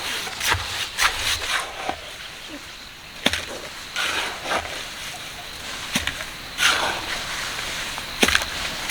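Hand tools scraping and knocking while working concrete for a farm road: irregular rough scrapes with a few sharp knocks about 3, 6 and 8 seconds in.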